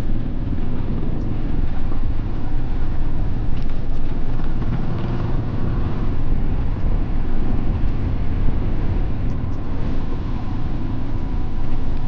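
Motorcycle engine running steadily in second gear while riding a rough hill track, heard as a continuous low rumble.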